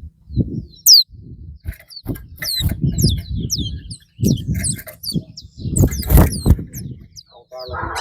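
Caged songbirds in a singing race, giving rapid, high chirps and short whistled notes with brief pauses between phrases, over irregular low rumbling noise.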